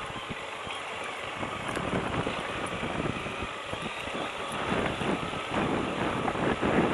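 Lifan KPT200 motorcycle on the move, its engine running under wind buffeting the microphone, getting a little louder toward the end.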